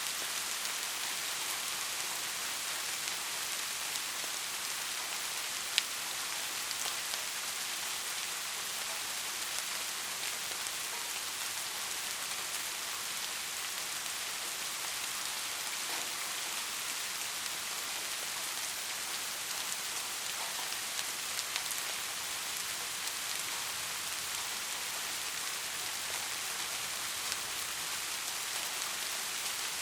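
Steady rain with a hiss, with scattered sharp drop ticks and one louder drop about six seconds in.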